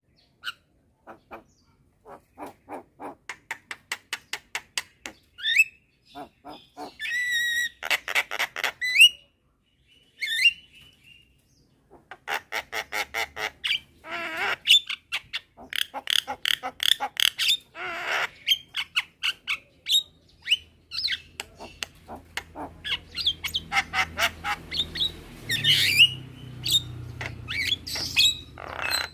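Javan mynas calling: runs of short calls repeated about two to three a second, broken by a few longer, wavering whistled notes.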